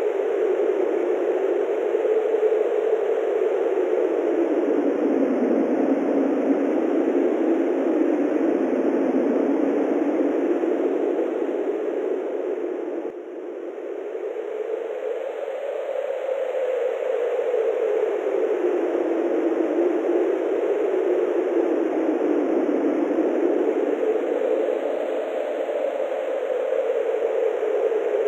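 Wind howling: a steady rush whose pitch slowly rises and falls in long swells, easing off briefly about halfway through.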